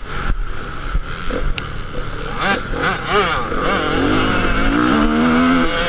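Motocross dirt-bike engines revving, their pitch rising and falling repeatedly as the riders work the throttle and shift, with a longer, steadier climb in pitch near the end.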